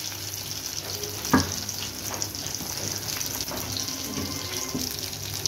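Chicken shami kababs shallow-frying in hot oil in a pan over medium heat: a steady crackling sizzle. One sharp click comes about a second and a half in.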